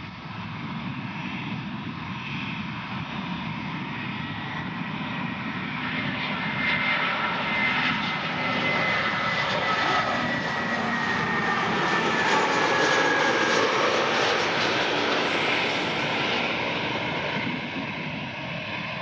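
Airbus A320-214's CFM56 turbofan engines on its landing approach, a rushing jet noise that swells as the plane passes. A high fan whine slides downward in pitch through the middle of the pass.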